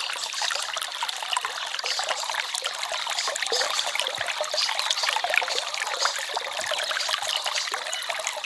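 Small forest stream trickling and babbling steadily, a dense patter of light splashes with little low rumble.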